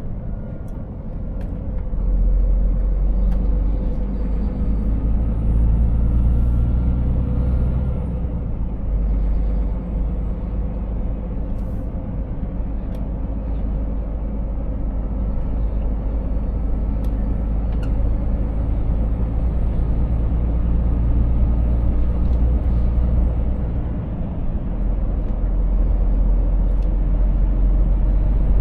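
Scania 500S truck's 13-litre straight-six diesel running on the road, a deep steady drone with road noise. It gets louder about two seconds in and dips briefly a couple of times.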